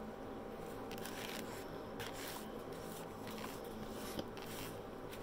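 Close-miked chewing and mouth sounds of someone eating a soft pulled-pork barbecue sandwich, with irregular small wet crackles and squishes as food is handled. There is a faint knock a little after four seconds in.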